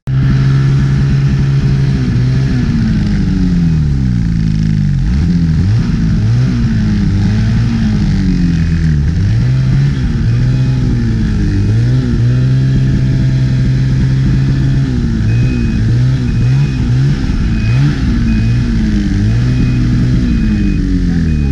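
Snowmobile engine running under varying throttle while riding, its pitch rising and falling again and again as it revs up and eases off.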